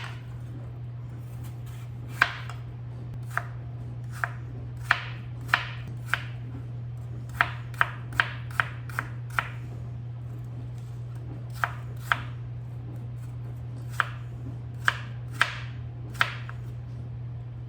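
Kitchen knife dicing peeled Gala apples on a cutting board: irregular sharp strikes, one or two a second, with a few short pauses, over a steady low hum.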